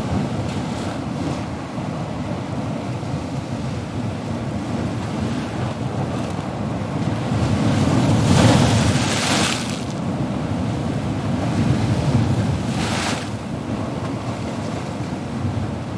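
Ocean surf: a steady low rumble of waves, with one wave breaking and washing in loudly about halfway through and a shorter wash a few seconds later.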